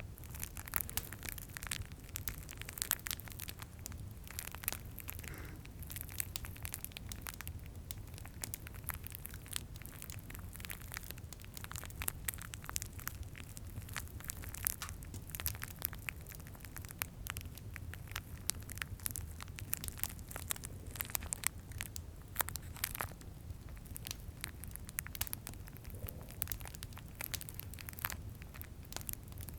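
Plastic candy cane wrappers crinkled and handled, a dense run of irregular crackles over a steady low rumble from the fireplace ambience.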